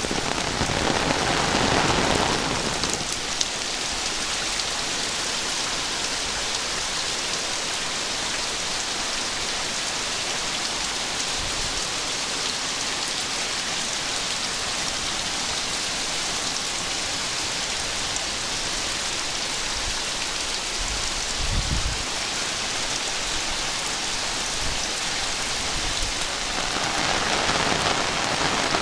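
Heavy rain falling steadily, a dense hiss of rain on surfaces, fuller for the first two seconds and again near the end. A brief low rumble about three-quarters of the way through.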